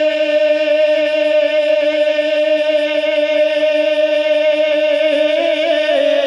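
One long note held steadily in devotional naat singing, with a slight waver near the end.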